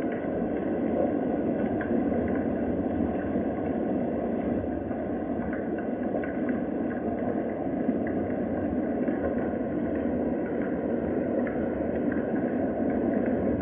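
Steady rain, a dense even rush with faint scattered drop ticks.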